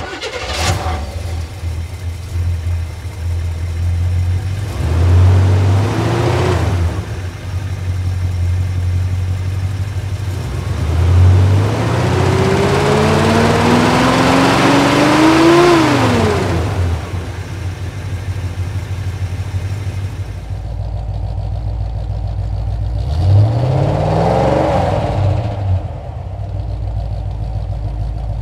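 Chevrolet 283 cubic-inch V8 idling with the hood up. It is blipped briefly about five seconds in, then revved in one long climb of about four seconds that drops back to idle, and blipped once more near the end.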